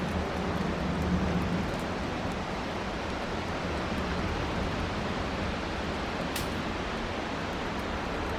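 Strong wind rushing through pine trees, a steady hiss. A low hum fades out in the first couple of seconds, and there is a single short high click about six seconds in.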